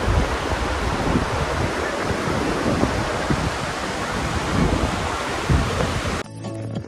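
Loud, steady roar of rushing floodwater with wind buffeting the microphone, cut off abruptly about six seconds in by soft music.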